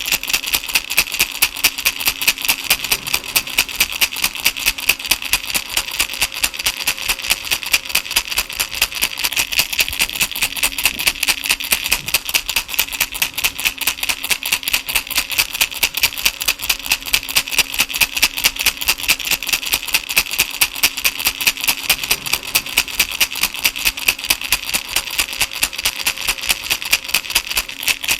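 A plastic baby rattle shaken steadily and rhythmically, its beads clicking several times a second with an even, bright rattle. A faint steady hum lies underneath.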